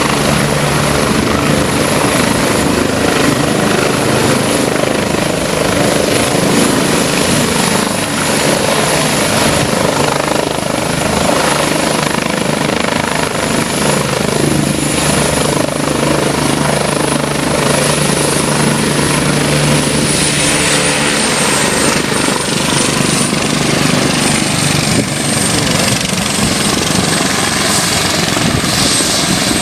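Air-ambulance helicopter running close by: loud, steady rotor chop under a high, thin turbine whine. The whine drops slightly in pitch a little past two-thirds of the way through.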